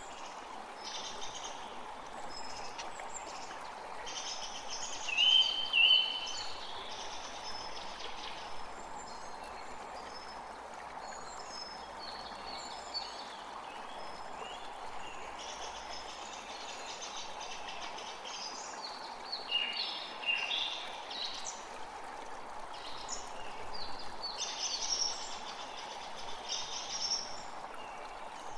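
Several wild birds chirping and singing in short phrases, with two louder notes about five and six seconds in, over a steady background hiss.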